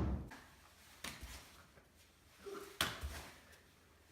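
A few scattered knocks or taps against quiet room tone: one about a second in and a louder one near three seconds in.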